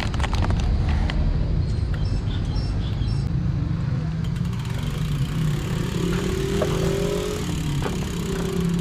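Road traffic: a steady low rumble of vehicles, with a motor vehicle's engine humming steadily from about six seconds in.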